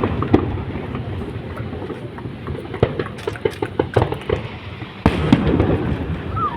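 Fireworks display going off: scattered sharp bangs with a quick run of crackling pops in the middle, and the noise of the bursts growing louder about five seconds in.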